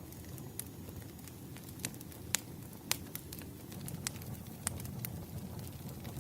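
Wood fire crackling: a low steady rumble of burning logs with irregular sharp pops, the two loudest a little after two seconds and about three seconds in.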